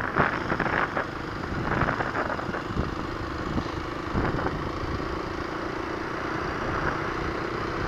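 A 2021 Kawasaki KLX250 dual-sport motorcycle's single-cylinder four-stroke engine running at a steady cruise, heard from the rider's head-mounted camera, with wind and road noise over it.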